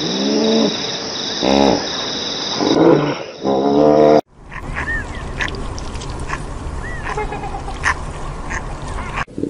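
Hippopotamus calling: four short honking calls in quick succession over a steady high whine. After a sudden cut a bit past four seconds, a king penguin colony: a steady hiss with scattered short chirps and clicks.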